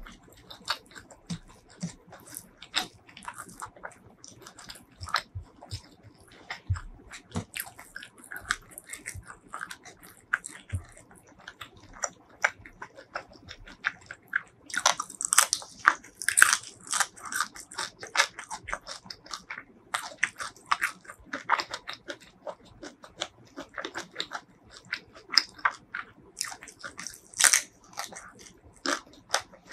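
Close-miked chewing and crunching of spicy fried shell-on shrimp, in many short crisp bites. The crunching comes in loud bursts about halfway through and again near the end.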